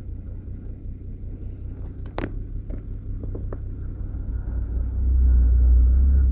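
Vehicle engine and road rumble heard from inside the cab while driving, swelling louder about five seconds in, with a single sharp click about two seconds in.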